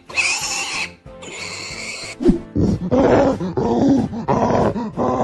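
Cartoon animal sound effects over background music: two high squeals in the first two seconds, then a run of deep, pulsed grunting roars from the animated gorilla, about two a second, through the second half.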